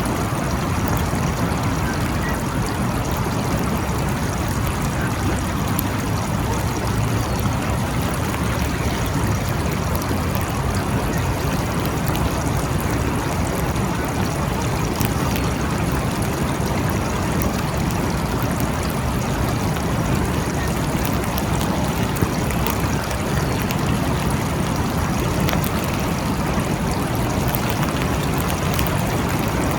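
Steady rain falling, a dense even wash of water noise with many small drop ticks and no thunderclap.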